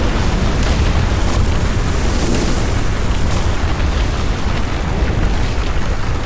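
Sound-design ambience of meteor fireballs and impacts: a loud, dense, steady low rumble with noise spread up through the higher range, and no single blast standing out.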